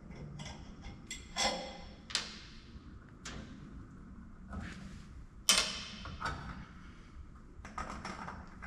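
Metal tools and parts clinking and clanking as the furnace's oil pump is opened to get at its debris screen: a string of separate sharp knocks, some ringing briefly, the loudest about five and a half seconds in.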